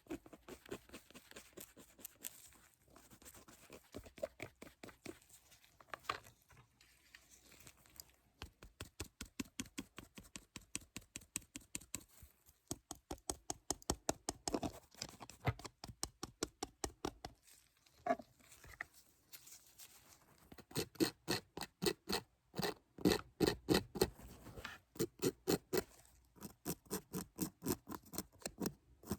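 Rapid, evenly spaced taps or clicks made close to the microphone, several a second, growing louder and fuller about two-thirds of the way through.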